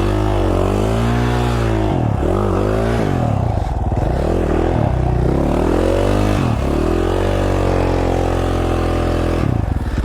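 2017 KTM 450 XC-F dirt bike's single-cylinder four-stroke engine revving up and down over and over under throttle, as when riding a trail, held at a steady pitch for a couple of seconds and then dropping to a lower note near the end.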